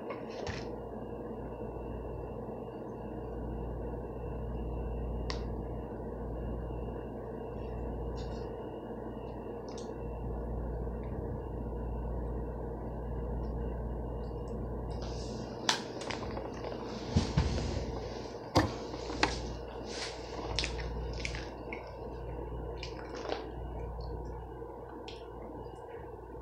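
A person chewing food close to the microphone over a steady background hum. Between about 15 and 24 seconds in there is a run of sharp, crackly mouth noises.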